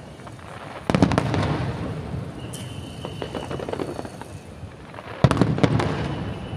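Aerial fireworks going off: two loud bursts, about a second in and again near the end, each a cluster of sharp cracks followed by a rolling echo that fades out. Scattered smaller crackles come between them.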